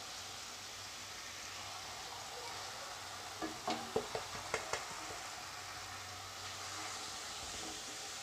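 Ground spices frying in oil with a thickened tomato-onion masala in a kadai: a steady sizzle. Midway there is a quick run of knocks from a utensil against the pan as the masala is stirred.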